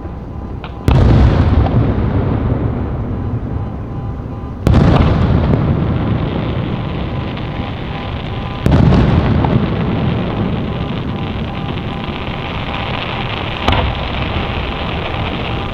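Fireworks: three loud aerial shell bursts about four seconds apart, each one a sudden bang that fades into a long rumble and crackle. A smaller sharp pop comes near the end.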